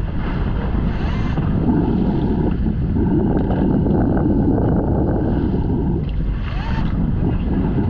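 Wind buffeting the microphone over the steady low rumble of a fishing boat at sea, with two brief louder gusts or splashes, one about a second in and one near the end.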